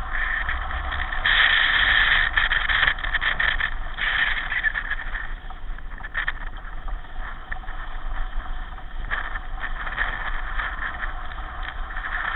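Pedal car in motion: steady rolling and rattling noise, with a louder stretch about a second in.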